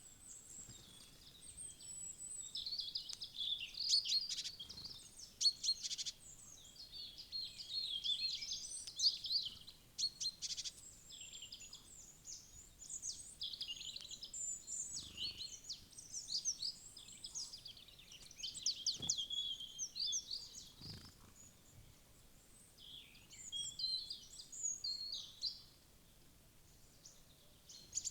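Small wild birds chirping and calling in quick, high-pitched runs of notes, several overlapping, with brief lulls late on.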